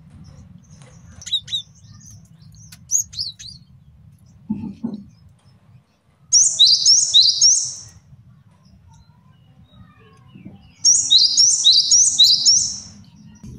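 Male cinereous tit (gelatik batu) singing: two bursts of rapid, repeated high two-note phrases, about six seconds in and again about eleven seconds in, with softer scattered high calls in the first few seconds. A brief low sound comes just before five seconds, over a faint steady low hum.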